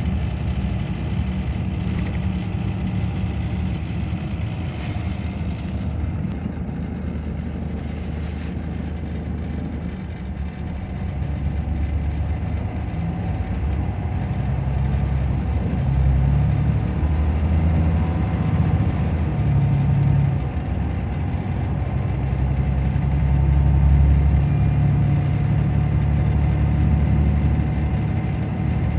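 Scania DC9 five-cylinder diesel of a Scania K94 bus running under way, its deep engine note steady at first, then growing louder about halfway through and again near the end as the bus pulls.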